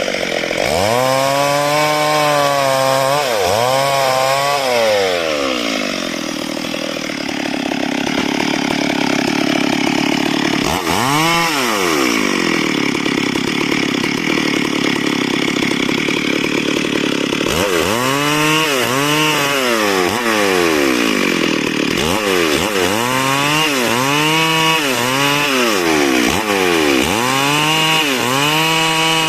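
Two-stroke chainsaw cutting wood, its engine revving up and dropping back again and again. Through the middle it holds a lower, steadier note while it cuts, then goes back to quick revs about once a second near the end.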